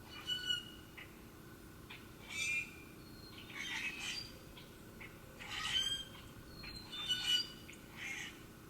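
Short, harsh bird calls, about six of them spaced a second or two apart, with a few faint chirps between them.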